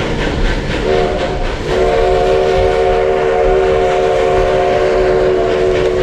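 Steam locomotive whistle of the 1880 Train blowing a chord of several notes: a short blast about a second in, then a long held blast, over the rumble of the moving train.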